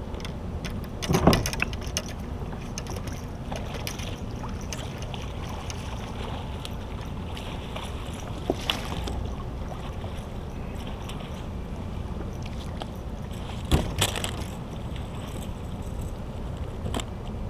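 Steady wind and water noise around a kayak, with a few short sharp knocks: one about a second in, one near the middle, and a cluster about three-quarters of the way through.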